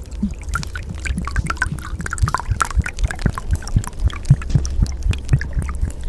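Rain water splashing and dripping: many irregular drops over a steady low rumble.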